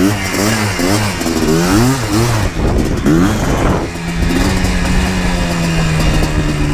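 Yamaha Blaster 200's two-stroke single-cylinder engine under way, its revs rising and falling again and again as the throttle is worked, then settling to a steady pitch about four seconds in.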